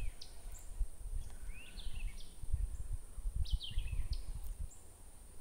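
A songbird calling, repeating a short phrase of quick falling chirps every second or so, over an irregular low rumble of outdoor noise.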